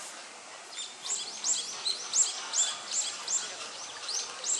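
A songbird singing: a quick run of about ten sharp, high notes, each falling in pitch, roughly three a second, starting about a second in.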